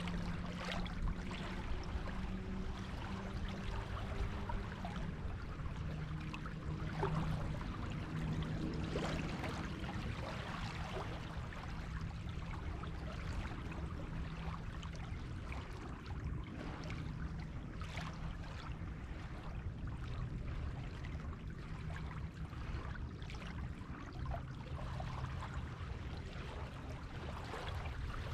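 Small waves washing and fizzing on a beach shore, a steady wash of water noise with fine crackling. A low hum comes and goes underneath.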